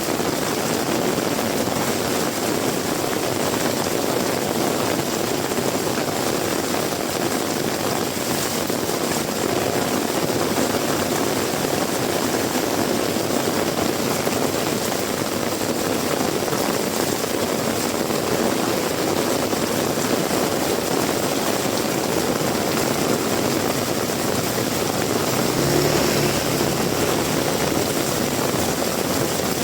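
Heavy rain falling steadily, a dense even downpour with no let-up. A brief low hum shows near the end.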